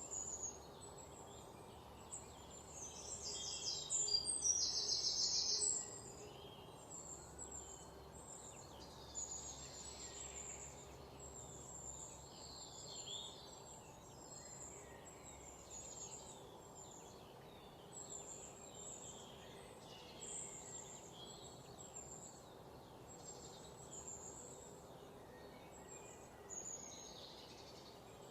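Small birds chirping, with short high calls repeating throughout. About three seconds in comes a louder, rapid, buzzy trill lasting roughly three seconds. Steady low background noise runs underneath.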